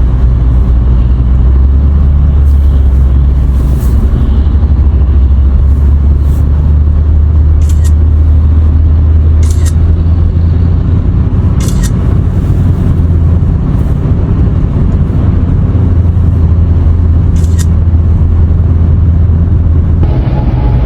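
Steady low rumble of a vehicle driving, with a few brief hissing ticks scattered through it.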